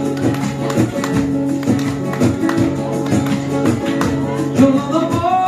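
Gipsy rumba music: acoustic guitars strumming chords in a steady rhythm, with a rising melodic line near the end.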